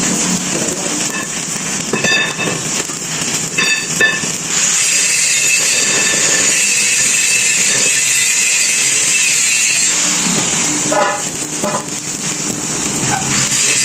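Electric arc welding on a steel excavator bucket, laying hardfacing beads: a steady, loud crackling hiss that settles in about four seconds in and briefly dips near the end.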